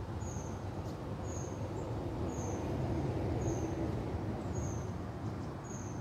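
A bird repeating a short high call about once a second, over a steady low rumble of wind on the microphone.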